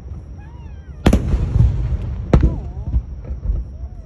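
Fireworks exploding: a loud bang about a second in, followed by crackling, and a second bang a little past halfway.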